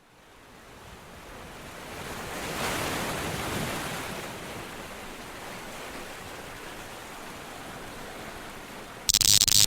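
A steady rushing noise like surf or wind that swells up over the first few seconds and then holds, with a short, much louder burst near the end.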